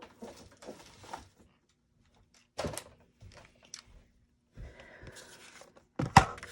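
Papers and craft tools being handled on a desk: rustling and light handling noise, with two sharp knocks, one a little under three seconds in and a louder one near the end.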